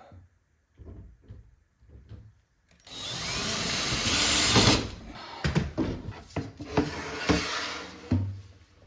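A few light knocks, then a power drill driving a screw into a wooden board: a steady run of about two seconds, followed by several short bursts as the screw is driven home.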